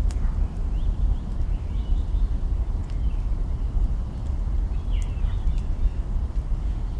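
Campfire burning, with scattered sharp crackles of burning branches over a steady deep rumble. Short bird chirps come a few times, around a second, two seconds and five seconds in.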